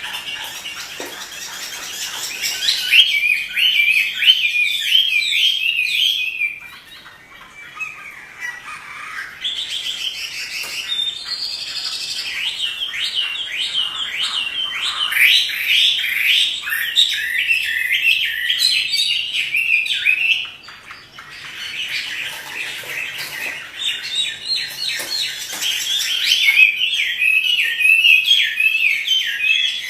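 Chinese hwamei (Garrulax canorus) singing at length: long runs of rapid, varied whistled notes, broken by two short pauses about seven seconds in and about twenty-one seconds in.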